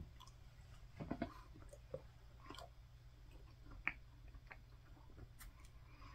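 Faint, scattered crunches and mouth clicks of chewing a hard, stale chocolate-glazed snack pie with toothless gums.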